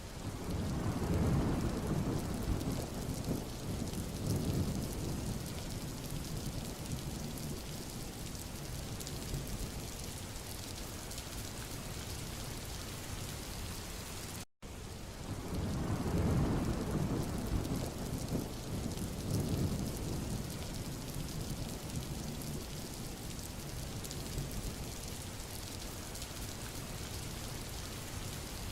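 Steady rain falling on a road, with a low rolling rumble that swells for several seconds about a second in and again just after halfway. The sound cuts out for an instant near the middle.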